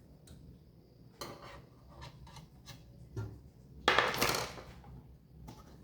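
Computer parts being handled against a metal PC case: scattered light clicks and knocks, with a louder metallic clatter about four seconds in.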